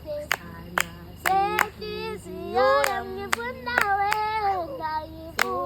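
A small group singing a song together, children's and women's voices, with sharp hand claps keeping time about every half second.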